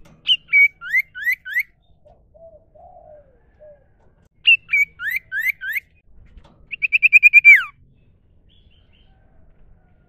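Common iora (cipoh) singing. It gives two matching phrases, each a sharp high note followed by three quick rising whistles, then a rapid trill of about ten notes that ends in a falling slur. A few faint low warbled notes come between the first two phrases.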